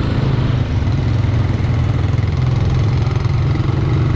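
Small off-road vehicle engine, likely a four-wheeler's, running steadily while the vehicle moves slowly along a trail.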